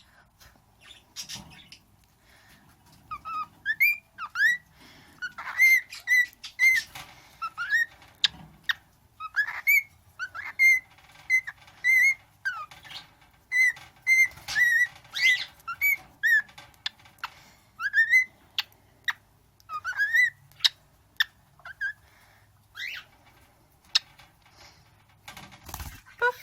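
Young cockatiel whistling a string of short notes and rising whistle glides, including runs of quick repeated notes, mixed with sharp clicks.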